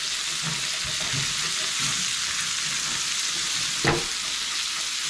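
Bell peppers, onions and garlic sizzling steadily in oil in a cast iron skillet, with one short knock about four seconds in.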